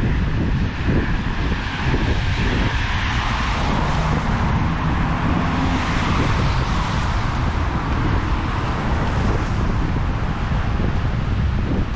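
Strong wind buffeting the microphone with a low rumble, over surf washing in, a broad hiss that swells and fades in the middle.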